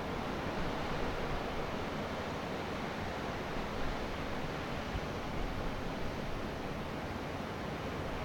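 Steady wind and sea noise: a constant hiss of surf and wind, with wind buffeting the microphone as an uneven low rumble.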